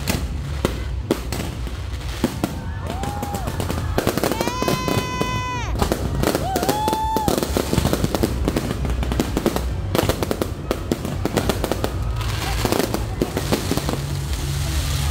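Fireworks display with aerial shells and crackling stars bursting overhead: a dense, continuous run of sharp bangs, pops and crackles over a low rumble. A few long, shrill, steady tones stand out in the middle.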